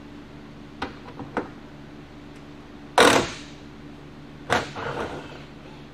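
A few light clicks, then two loud knocks about a second and a half apart, the second trailing off briefly, over a steady low hum.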